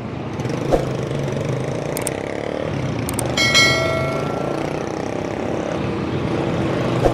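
Road traffic and a motor vehicle engine running steadily around a moving bicycle, with a knock under a second in and a short bell-like ring about three and a half seconds in.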